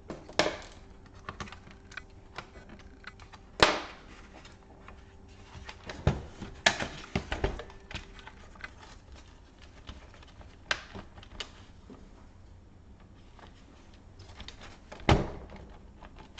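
Hands handling a laptop's casing parts and tools during disassembly: scattered clicks, taps and knocks, the loudest about three and a half seconds in and again near the end.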